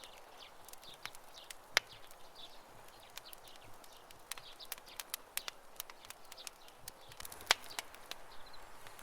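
Campfire crackling with irregular sharp pops, two louder snaps about two seconds in and near the end, while birds chirp faintly in the background.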